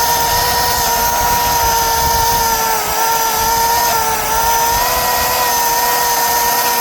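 Milwaukee battery-powered chainsaw running at full speed through a pine limb in a clean cut, a steady high electric-motor whine that sags slightly in pitch a couple of times as the chain bites under load.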